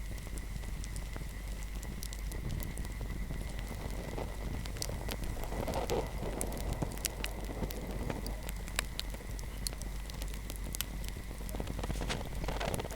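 Wood fire crackling, with irregular sharp pops and snaps over a steady soft hiss of flames.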